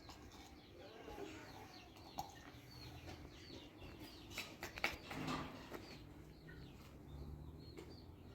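Small birds chirping faintly over and over in short, quick calls, with a few light clicks and knocks about two seconds in and again around the middle.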